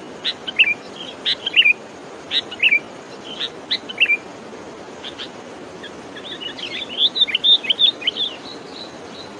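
A small songbird chirping: short high calls, often in pairs, repeated every half second or so, then a quick burst of rapid twittering about six seconds in, over a steady outdoor hiss.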